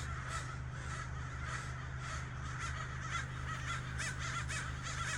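Ravens calling over and over in a run of short, hoarse calls, several birds at once, with a steady low hum underneath.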